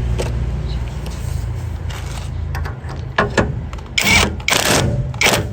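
An engine running with a low, steady, pulsing rumble that fades after about two and a half seconds, followed by four short bursts of hissing noise.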